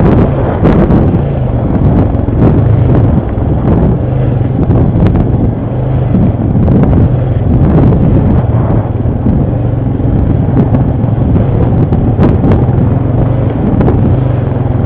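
ATV engine running steadily under way on a dirt trail, its pitch rising and falling a little with the throttle, with rough rumble and wind on the microphone and a few sharp clicks.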